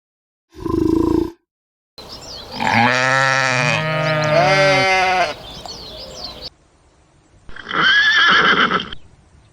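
Farm animal calls: a long, low call lasting several seconds with overlapping pitch lines, then after a short pause a shorter, higher call that rises and falls.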